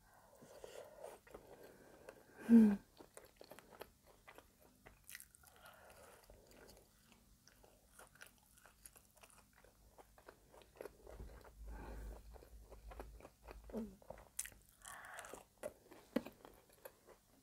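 Close-miked chewing of caramel cinnamon brioche French toast bake: many small wet, sticky mouth clicks and smacks, with a brief hummed 'mm' about two and a half seconds in.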